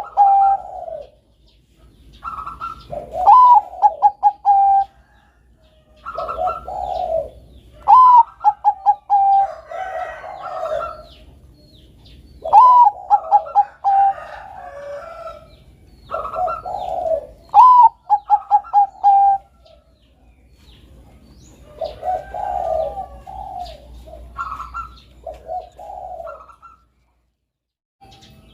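Bangkok-type zebra dove (perkutut) cooing: repeated phrases every few seconds, each opening with a higher note and running into a quick string of short coos, with softer, lower cooing between them.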